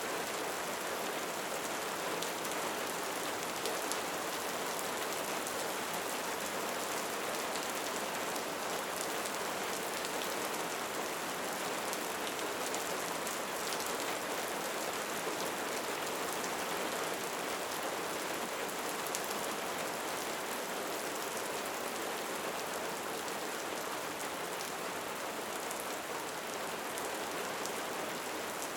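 Steady rain falling on a hard surface, an even hiss with fine scattered patter of drops.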